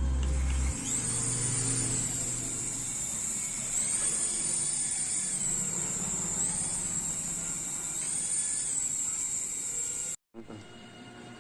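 Small electric motors of a mini RC helicopter whining at a high pitch, swelling and rising in pitch several times as the throttle is changed. The sound cuts out suddenly near the end.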